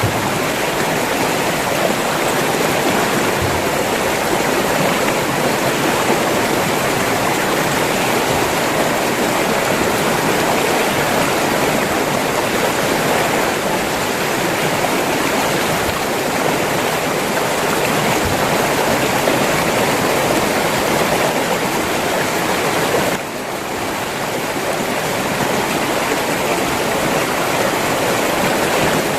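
River water flowing steadily, an even rushing sound, with a brief drop in level late on.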